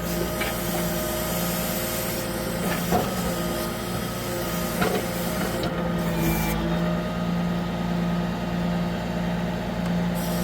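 Self-loading log truck's engine running steadily, powering the log loader, with two sharp knocks of logs being handled about three and five seconds in.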